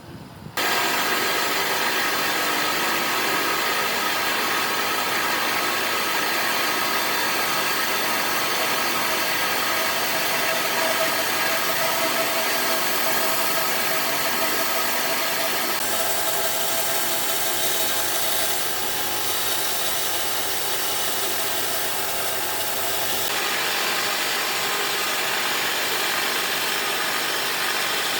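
A woodworking power tool running steadily, with a hum and a hiss. It starts suddenly about half a second in and shifts in tone twice along the way, as if the load on it changes.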